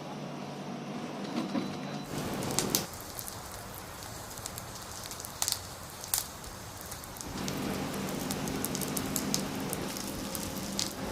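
Skewers sizzling over a charcoal barbecue grill: a steady hiss with scattered sharp crackles. The sound changes abruptly a few times.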